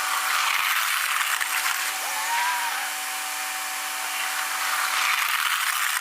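A snow plow truck at work: a steady mechanical hum with two stretches of louder rushing noise and a short rising motor whine, like the plow's hydraulic pump.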